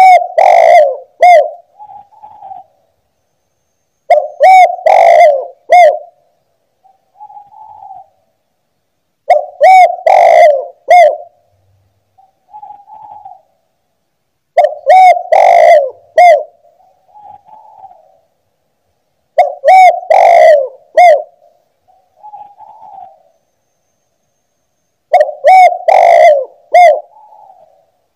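Spotted dove (tekukur) cooing loudly: six phrases about five seconds apart, each a few strong coos followed by a softer trailing coo.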